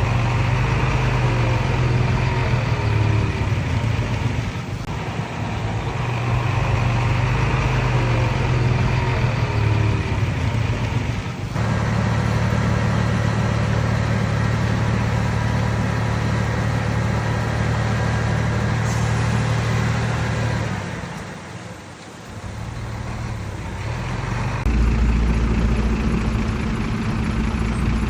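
Komatsu D31PX bulldozer's diesel engine running steadily, with its pitch and level shifting abruptly a few times and dipping briefly about three quarters of the way through.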